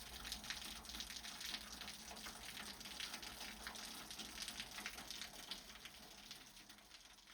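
Steady rain falling, an even hiss dotted with the patter of individual drops, fading out gently near the end.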